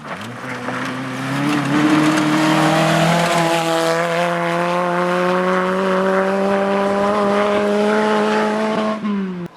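Rally car engine under hard acceleration, growing louder over the first two seconds and then holding a long, slowly rising pitch. Near the end the pitch falls.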